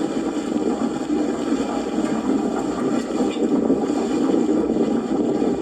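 Strong storm wind rushing over the microphone: a steady, loud rushing noise with no clear pitch.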